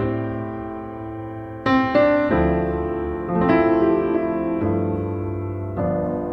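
Background piano music: slow, sustained chords, changing every second or so.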